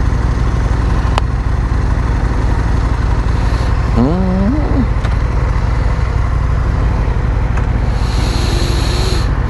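Steady riding noise from a 2008 Yamaha R6 motorcycle on the move: wind rushing over the microphone over the inline-four engine's constant drone. A brief voice sounds about four seconds in.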